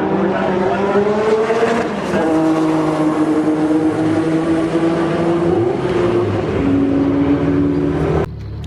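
First-generation Honda NSX V6 engine and exhaust accelerating hard. The engine note climbs, drops at a gear change about two seconds in, pulls up again and shifts once more near the end, then cuts off suddenly.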